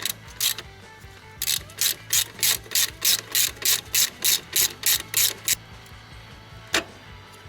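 Socket ratchet wrench clicking in quick back-and-forth strokes, about three a second, working a bolt on a motorcycle's rear Pro-Link suspension linkage. There is a single stroke just after the start, then a long run, and one last stroke near the end.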